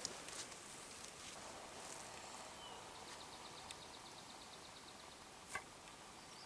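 Faint outdoor ambience at a lakeside campsite. About three seconds in, a high, rapid trill of about ten pulses a second lasts roughly two seconds, and a single sharp click stands out near the end.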